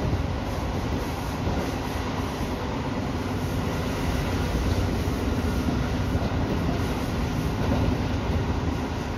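Tobu Urban Park Line electric train running at speed, heard from inside the driver's cab: a steady rolling and running noise with a low hum.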